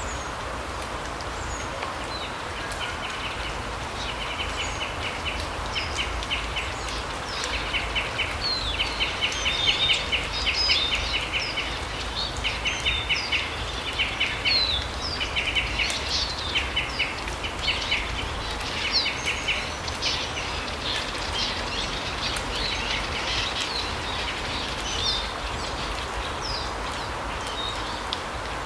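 Small forest birds calling: repeated bursts of rapid chattering trills and short high chirps, busiest through the first two-thirds and thinning out near the end, over a steady low rumble of background noise.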